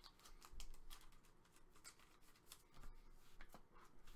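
Faint clicks and rustles of trading cards being handled and flipped through.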